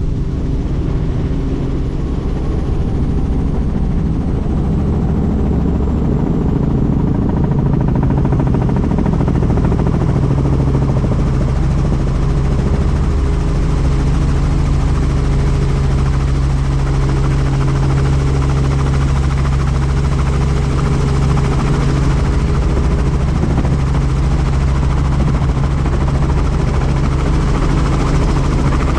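Helicopter in flight: steady drone of rotor and engine, unchanging throughout.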